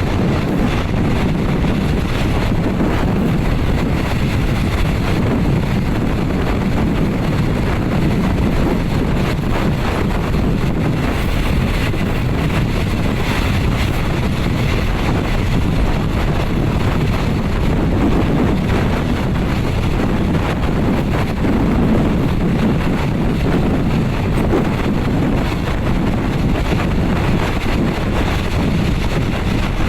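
Steady running noise of a moving passenger train heard from inside a third-class coach, with wind buffeting the microphone.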